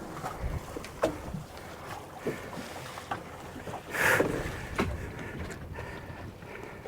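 Small open fishing boat on the ocean, with scattered sharp knocks and clicks against a steady noise of wind and water, and a short louder rush of noise about four seconds in.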